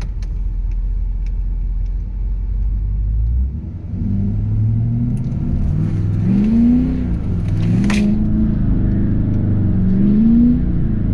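Ford Super Duty's 6.7 Power Stroke V8 turbodiesel, tuned and emissions-deleted, running low and steady, then revving up and falling back about three times as the truck is driven hard on snow.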